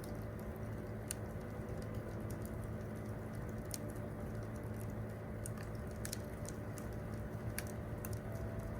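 Wood campfire crackling, with irregular sharp snaps and pops over a steady low background.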